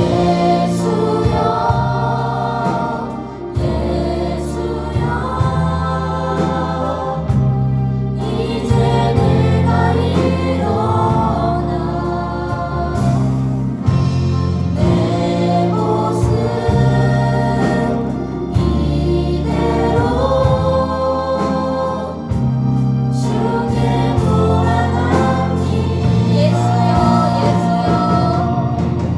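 Group singing a Korean worship song over band accompaniment with a steady bass line.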